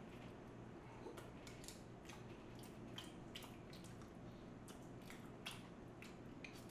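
A person quietly chewing a spoonful of omurice, with soft irregular wet mouth clicks and smacks over a faint steady hum.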